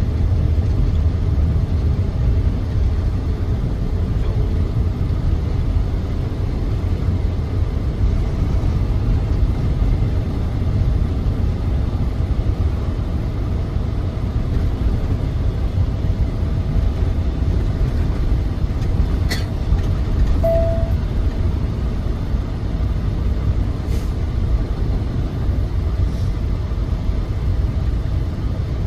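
Semi truck running: a steady low engine and road rumble. A single short beep sounds about two-thirds of the way through.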